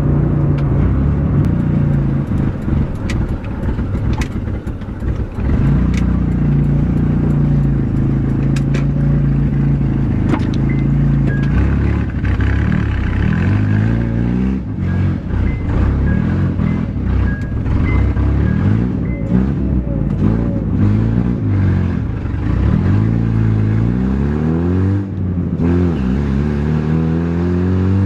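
Honda Prelude engine under way on the road, running steadily at first, then accelerating repeatedly from about halfway through, its pitch climbing and dropping back at each gear change.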